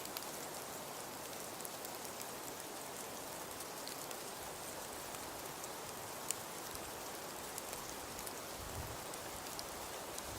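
Wood fire crackling in a fireplace: a steady hiss with scattered sharp pops and snaps, one louder pop about six seconds in.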